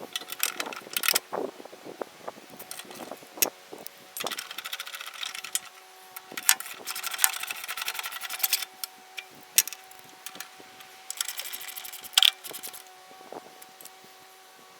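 Small loose metal hardware rattling and clinking in a container, in several bursts of rattling with sharp clicks between, as of rummaging through a parts bin for a replacement lock washer. A faint steady hum runs underneath.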